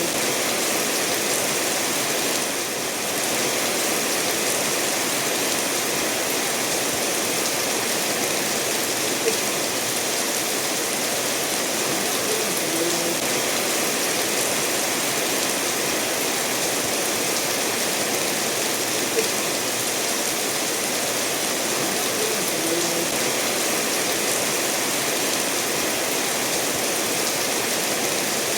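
Steady rainfall mixed with a stream running over stones, an even hiss with a faint tick about every ten seconds.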